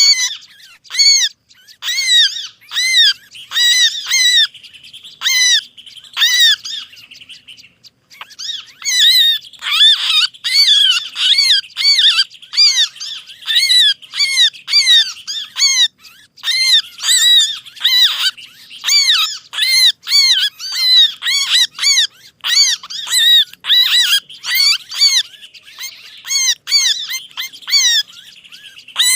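Bird-lure recording of small songbirds calling in an agitated chorus: rapid, repeated sharp chirps, several a second, with a steady high trill under them at times and a brief lull about eight seconds in. It is the noisy alarm-and-distress calling used to draw small birds in close.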